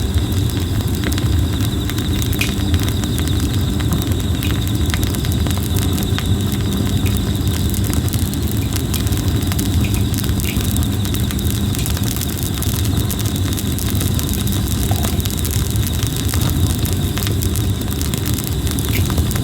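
Red plum wood burning in a campfire, crackling with frequent sharp pops over a low steady rumble of the flames, while an insect trills steadily at a high pitch.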